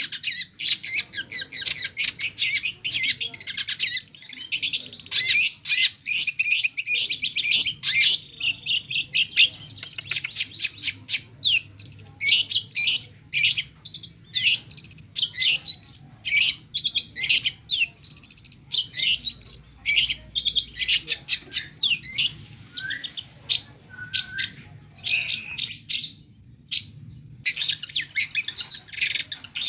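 Long-tailed shrike singing a fast, unbroken run of high chirps and notes, packed with calls of other birds that it imitates, with a few short pauses.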